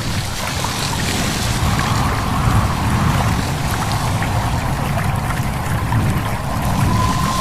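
A stream babbling and trickling over a steady low rumble of wind. A thin steady high tone comes in near the end.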